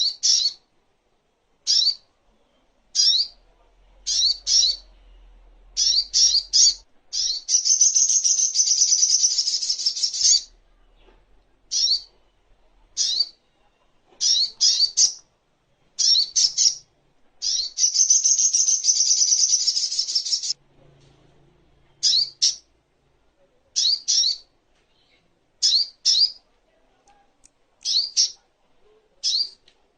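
Sogok ontong bird singing: sharp, high chirps in quick pairs and triples repeated every second or two, broken twice by a long buzzy trill of about three seconds.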